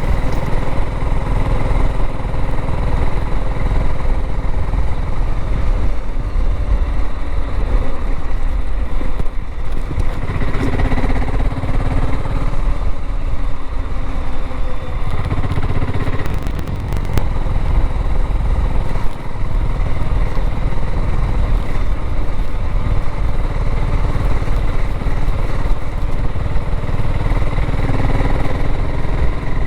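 BSA Gold Star 650 motorcycle engine running as the bike is ridden along the road, its note rising and falling with the throttle a few times in the middle.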